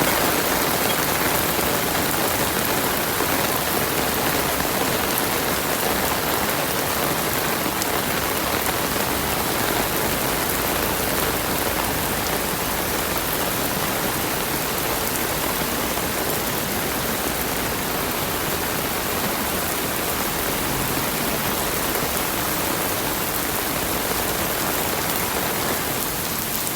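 Rain falling steadily, an even hiss of drops that does not let up.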